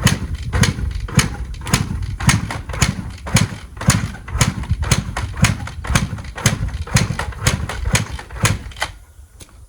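2003 Honda CR250 two-stroke engine sputtering with the throttle held wide open, firing in uneven pops about three a second instead of running clean, then dying about nine seconds in.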